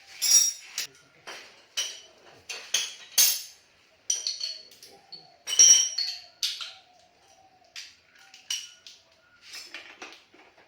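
Steel hand tools clinking and rattling against each other, an irregular series of sharp metallic clinks with a bright ring, as a ratchet and sockets are handled.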